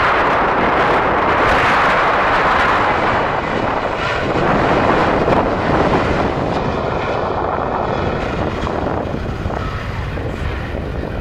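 Jet airliner passing the airfield: a loud, steady rush of engine noise that slowly fades, with a thin turbine whine showing through about midway.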